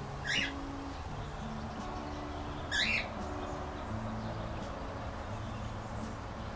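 Two short, harsh bird squawks, the first near the start and the second about two and a half seconds later, over a steady low background.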